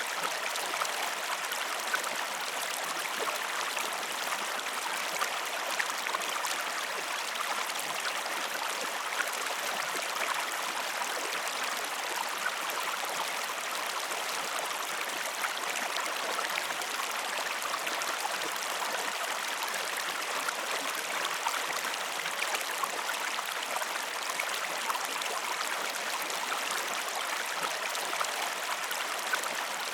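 Flowing stream water, a steady rushing with fine trickling splashes.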